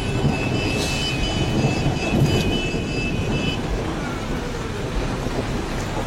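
Steady low rumble of a vehicle in motion, with a thin high whine that starts under a second in and stops after about three seconds.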